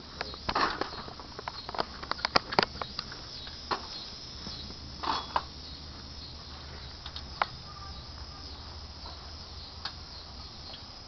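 Scattered clicks and knocks from working the hydraulic engine hoist while lifting the engine, over a low steady hum.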